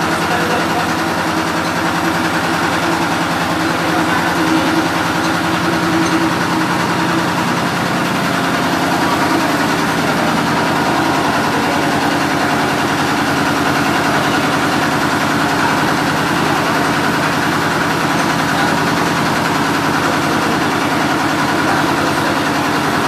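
Large engine running steadily at idle, its pitch shifting slightly about eight seconds in.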